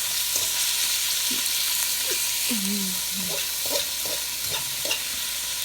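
Chicken fat and trimmings frying in a pot to render out their oil, with a steady sizzle.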